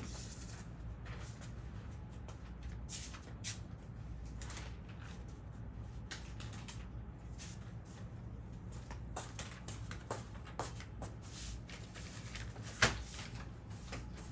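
Scattered light clicks and taps of small objects being handled, with one sharper, louder click near the end, over a steady low hum.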